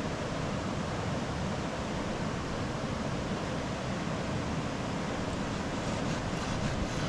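Steady rushing of a flowing river, an even wash of water noise, with faint scattered clicks near the end.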